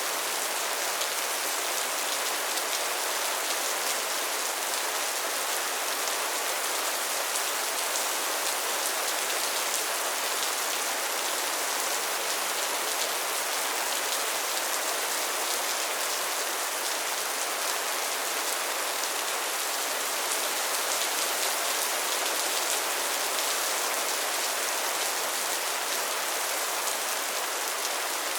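Steady rainfall, a dense even hiss of drops pattering on surfaces with no break or change.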